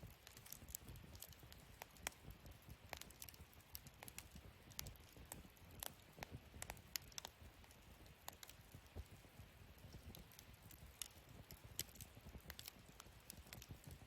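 Wood fire burning in a fire pit, quietly, with irregular small crackles and pops.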